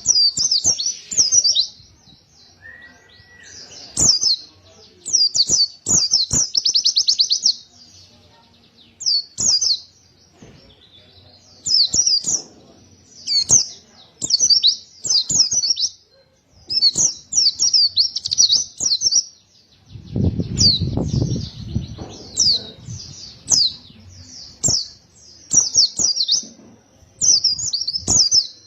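White-eye (pleci) singing in repeated quick, high-pitched phrases with short pauses between them, including a fast trill about six seconds in. A low rumble sounds around twenty seconds in.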